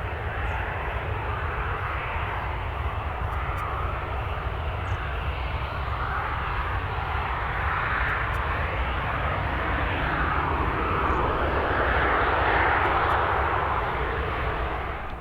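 Airliner engines running with a steady, loud rushing noise that slowly swells to a peak near the end, then eases and cuts off suddenly.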